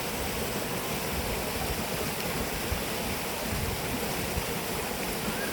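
Steady rush of flowing water, like a stream or small waterfall.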